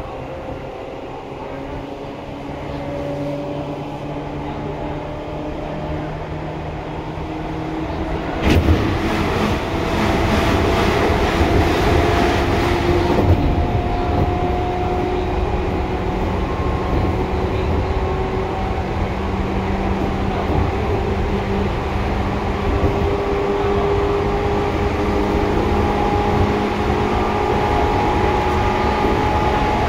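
Running sound of a Seibu 2000 series electric train heard from inside the car: wheels rumbling on the rails under a whine from the traction motors and gears that slowly rises in pitch as the train gathers speed. About eight seconds in there is a sharp knock, then a burst of louder rushing noise for about five seconds, and the running stays louder afterwards.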